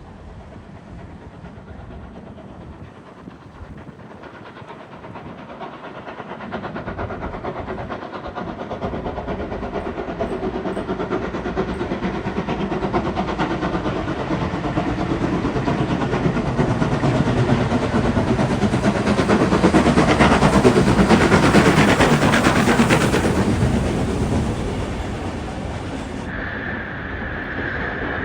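Steam locomotive 3526, a NSW C35 class 4-6-0, hauling a passenger train past: the sound grows from a faint approach to its loudest about three quarters of the way through, with rapid beats and wheels on the rails, then eases off as the carriages roll by. A steady high tone starts near the end.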